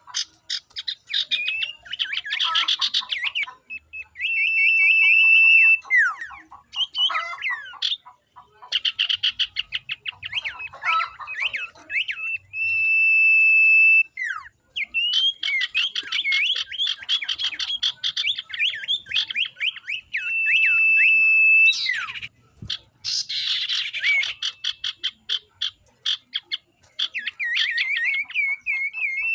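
A flock of common ioras calling over one another: long, level whistled notes held about a second, several times, between fast chattering trills and rattles.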